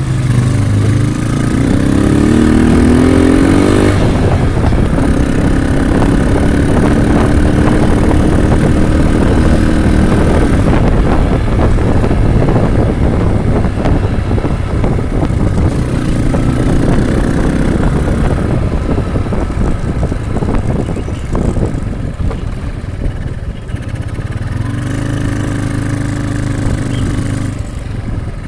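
Motorcycle engine running on the road, its pitch rising as it accelerates about a second in, again midway, and near the end. Heavy wind noise sits under it.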